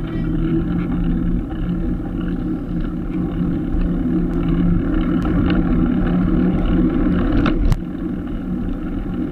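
Road traffic: a motor vehicle's engine hums close by over steady road noise. Near the end there is a sharp click, and the hum and noise drop off abruptly.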